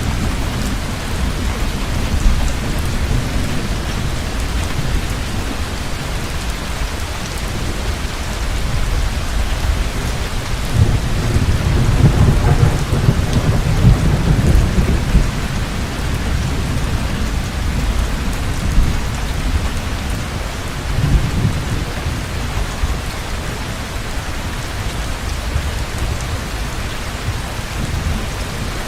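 Heavy rain falling steadily over a deep rumble of thunder, which swells louder for a few seconds around the middle and again briefly later on.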